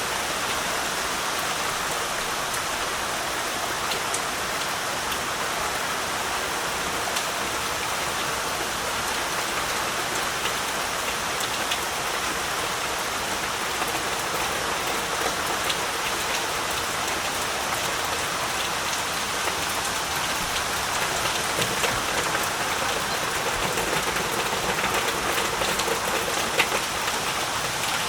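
Heavy rain falling steadily, a dense even hiss with individual drops ticking through it, a little more pronounced near the end.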